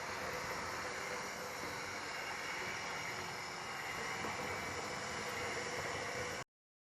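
Kabolite radio-controlled hydraulic construction model running, a steady hiss and whir with a faint even hum, which cuts off abruptly near the end.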